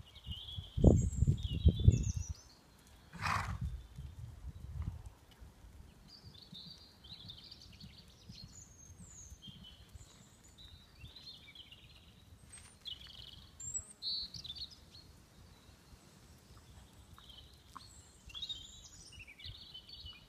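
Small birds chirping and singing with short, high, scattered calls throughout. A few loud low rumbling bursts come in the first couple of seconds, with a brief sharp crackle just after.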